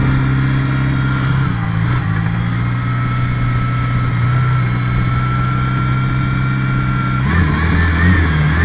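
Lada Niva off-road prototype's engine pulling steadily at low revs as it crawls up out of a muddy trench, with a steady high whine above it. About seven seconds in, the engine note jumps and wavers as it is revved.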